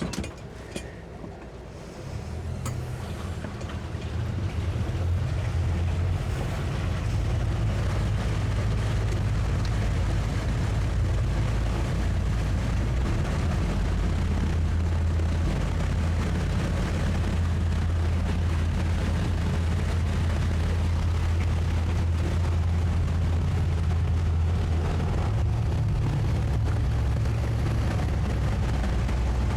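Towboat's twin 200 hp Suzuki outboard engines throttling up over the first few seconds, then running steadily under load with a low drone while pulling a heavy yacht.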